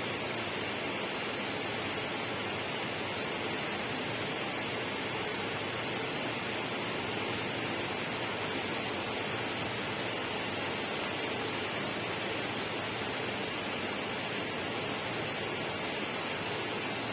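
Steady, unbroken rushing noise with no separate events or changes.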